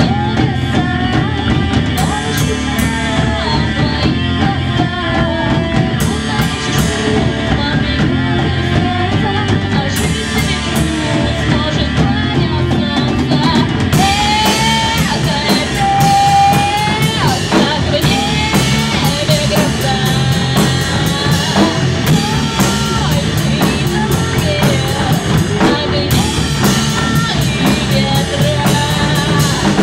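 Rock song with singing over drum kit, bass and guitar.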